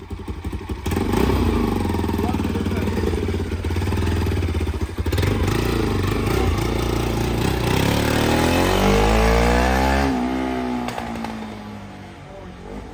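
Bajaj Pulsar NS200 motorcycle engine running, with a rev that climbs and falls back about eight to ten seconds in, then settles lower.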